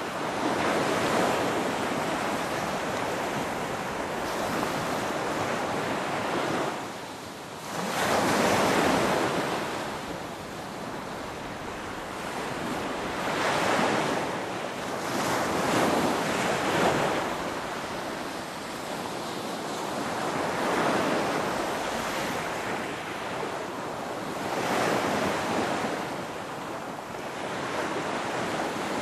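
Ocean waves breaking on a shore, the surf swelling and falling back every few seconds, with a short lull just before a larger wave.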